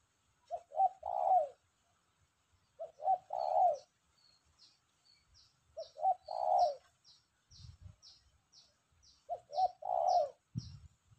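A spotted dove cooing readily: a three-note phrase, two short notes then a longer one, repeated four times about three seconds apart. A small bird chirps rapidly and high in the background from about four seconds in, and there are two dull low thumps late on.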